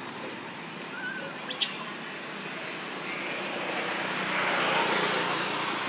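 A bird's single short, high chirp falling in pitch, about one and a half seconds in, over a steady background hiss that grows a little louder in the second half.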